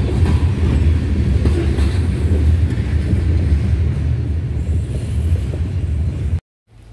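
Freight train's covered hopper cars rolling past, a steady low rumble that cuts off suddenly near the end.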